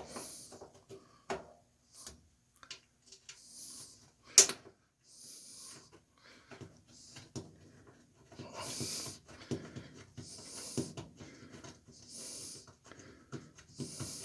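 A man breathing audibly through his nose, a soft breath every second or two, while small parts click and knock as a washing machine's lid switch assembly is fitted back together; a single sharp click stands out about four seconds in.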